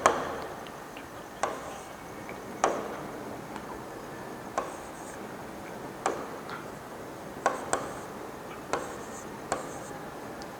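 About nine sharp, light taps or clicks at uneven intervals, two of them close together around seven and a half seconds in, over a faint steady hiss.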